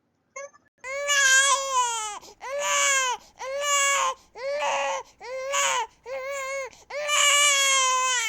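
Infant crying: a run of about seven loud, arching wails of roughly a second each, starting about a second in, the last one the longest.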